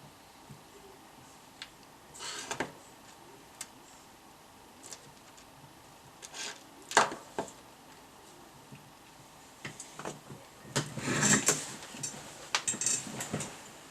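Irregular clicks, taps and short rustles of hands handling tools and parts, with the loudest bursts about seven seconds in and again about eleven seconds in.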